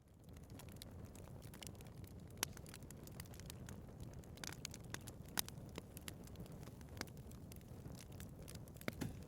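Wood fire burning in a fireplace: a steady low rumble of flames with frequent sharp crackles and pops, the loudest about two and a half and five and a half seconds in. It comes in abruptly out of silence at the very start.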